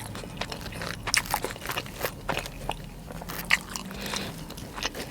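Close-up mouth sounds of a person chewing a mouthful of sushi roll: irregular wet clicks and smacks of chewing.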